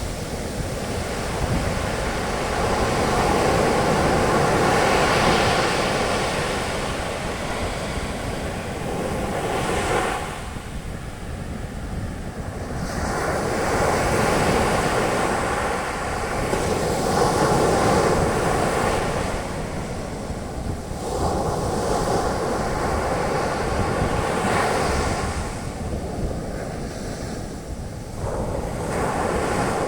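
Sea waves breaking on a beach and their foam washing up the sand, a continuous hiss that swells and eases in surges every several seconds.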